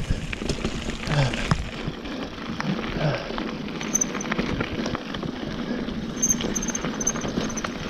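Mountain bike rolling down a rough, rocky dirt trail: a continuous crunch of tyres over gravel and rocks, with many small knocks and rattles from the bike.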